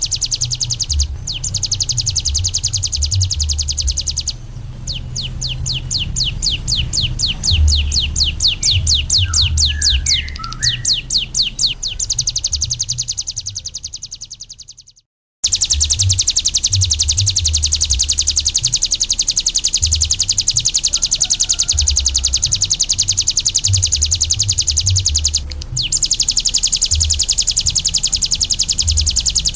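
Ciblek gunung (a prinia) singing a long, rapid, high-pitched trill of quickly repeated notes. A stretch of slower, separate notes comes about five seconds in. The song fades out about halfway, stops briefly, then comes back as a continuous fast trill. A low uneven rumble runs underneath.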